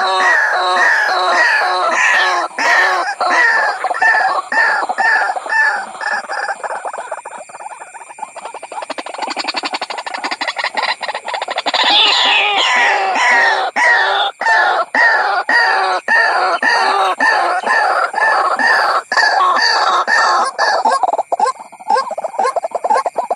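White-breasted waterhen calls played as a trapping lure: a fast series of repeated notes, about three a second, that turns softer and quicker in the middle and then comes back loud and regular.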